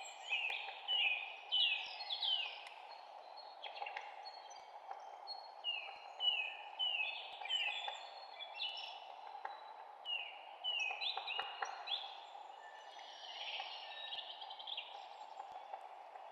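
Songbirds chirping, with many short falling chirps, often in quick runs of two to four, over a steady background hiss.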